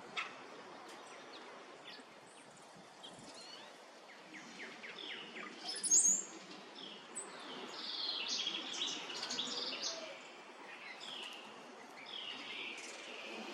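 Wild songbirds calling and chirping, with a loud high call sweeping down about six seconds in and a dense run of calls after it.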